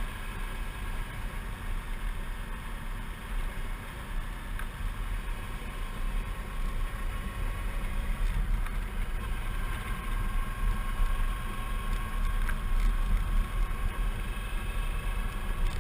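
Suzuki V-Strom 650's V-twin engine running steadily at riding speed, with wind rush. It grows a little louder about halfway through.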